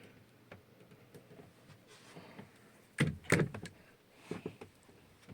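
A few faint clicks, then a short cluster of sharp knocks and clatters about three seconds in, followed by more light clicks: handling noise in the boat's cabin.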